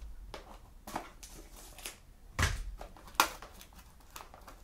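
Hands handling and opening a sealed trading-card box: scattered rustles and clicks of packaging, with a dull thump about two and a half seconds in and a sharp click just after three seconds.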